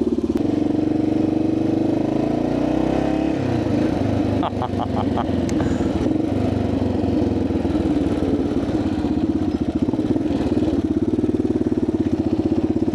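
1985 Yamaha XT600's air-cooled single-cylinder four-stroke engine running under way. The revs climb over the first few seconds, then dip briefly before settling into a steady run, with a quick run of ticks just after the dip.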